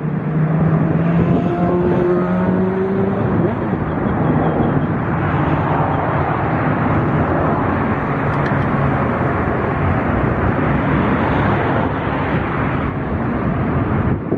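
Jet airliner's engines running at high power, a loud steady roar with pitched tones that glide over the first few seconds.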